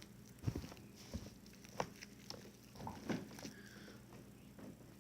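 Scattered soft clicks and taps of hands handling sticky slime-making materials, loudest about half a second in, near two seconds and just after three seconds, over a steady low hum.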